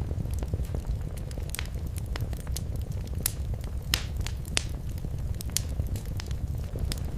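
Wood fire crackling in a fireplace: a steady low rumble of flames with frequent sharp, irregular pops and snaps, a few louder ones in the middle.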